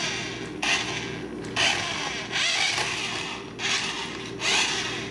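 A remote-control toy car's small electric motor and gears whirring in several short bursts, stopping and starting about once a second as it is driven.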